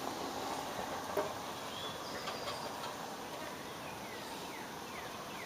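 Quiet outdoor background hiss with a small click about a second in and a few faint, short high chirps, some falling in pitch, in the second half.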